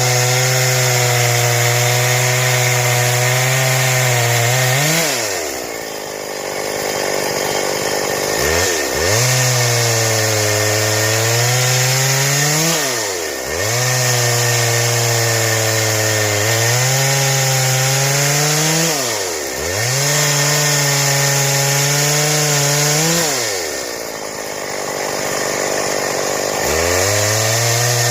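Stihl two-stroke chainsaw cutting wood into boards at full throttle. The engine note holds steady through the cuts, dips sharply and recovers twice, and twice falls back to a quieter idle for a few seconds before revving up again.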